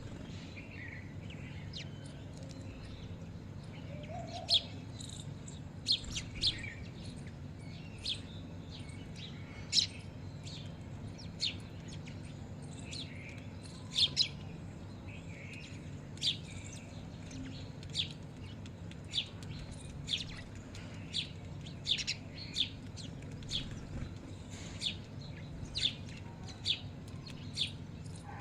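Small birds chirping: short, sharp single chirps, irregular, about one or two a second, over a low steady hum.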